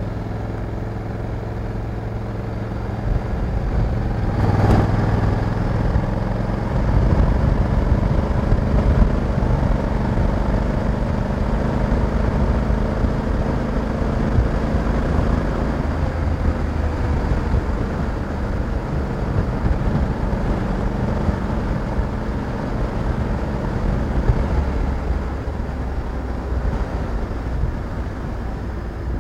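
Honda Africa Twin 1100 DCT's parallel-twin engine running on the road, getting louder and pulling harder from about three seconds in. A single short knock comes about five seconds in.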